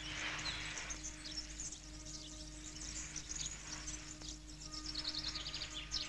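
Small birds chirping and twittering in quick, repeated high calls, over a steady low hum and hiss.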